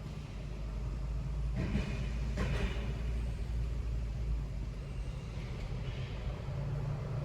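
Car driving through city streets: a steady low engine and road rumble, with a brief hiss about two seconds in.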